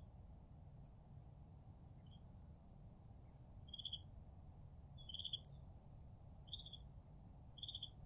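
Small songbirds calling faintly: a few thin high chips, then a short clear note repeated four times about every second and a half, over a faint low background rumble.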